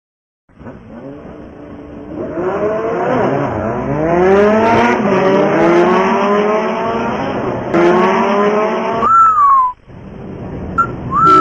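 Car engine sound effect accelerating, its pitch climbing in several rising sweeps like gear changes, followed by a short tyre squeal about nine seconds in and another near the end.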